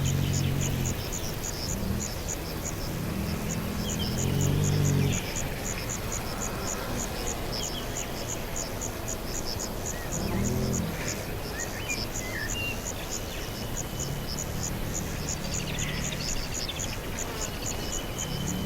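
An insect chirping in a steady, fast, high-pitched pulse, with a few short bird calls now and then. A low droning sound swells and fades several times, loudest about four seconds in.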